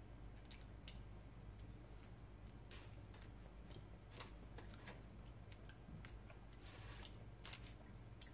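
Faint, irregular small clicks and ticks of chewing and handling soft, freshly baked homemade corn bread, over a steady low hum.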